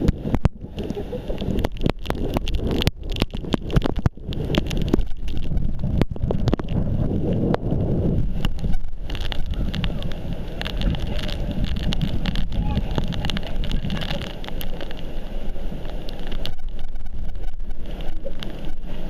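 Strong wind buffeting a waterproof action camera's microphone, with water sloshing around it and many short sharp crackles and knocks.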